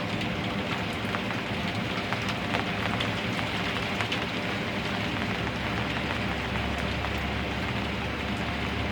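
Steady rain falling, with many scattered drop ticks over an even hiss. A steady low hum runs underneath, and a low rumble grows stronger about six seconds in.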